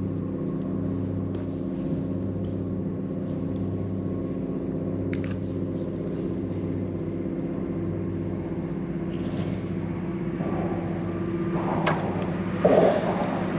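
An engine running steadily at a constant pitch, a low, even drone. A louder jumble of irregular sounds comes in near the end.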